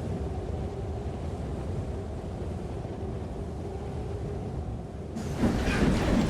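A steady low rumble, then about five seconds in an abrupt cut to a louder sound effect of a train running on rails.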